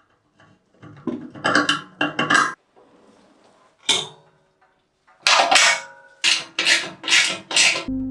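Metal clattering and clinking in bunches of sharp knocks, some with a brief ring: a cluster about a second in, a single clink around the middle, and a quick run of about six near the end.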